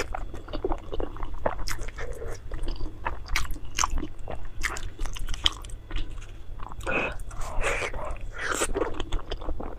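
Close-miked mouth sounds of a person biting and chewing food: irregular wet smacks and crisp clicks, a little louder about seven to nine seconds in.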